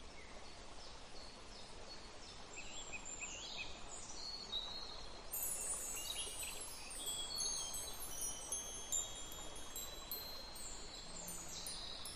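Metal wind chimes ringing, many high clear tones struck and left to fade, overlapping more densely from about five seconds in, over a faint steady hiss. A few short, faint high chirps come before the chimes build up.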